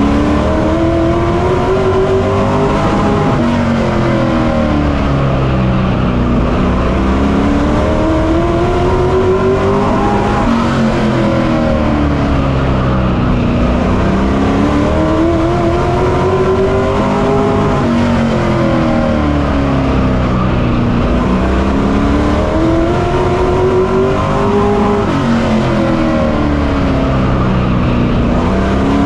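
Pro Truck race truck's engine heard from on board, under racing load. It revs up along the straights and eases off into the turns, its pitch climbing and falling again about four times.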